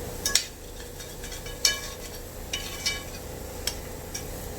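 A utensil clinking against a pan while vegetables are stirred: about seven sharp, ringing knocks at uneven intervals, the loudest near the start and about a second and a half in, over a faint steady hum.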